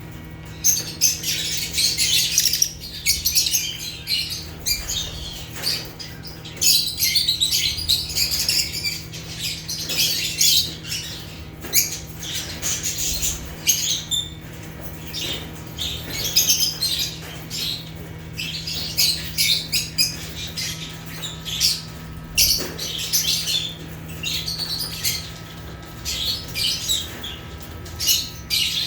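Lovebirds chattering: many quick, high-pitched chirps and squawks, almost without pause, over a faint steady low hum.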